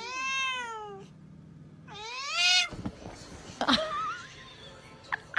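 Tabby cat meowing loudly at another cat: two drawn-out meows that rise and then fall in pitch, the first about a second long, the second shorter about two seconds in.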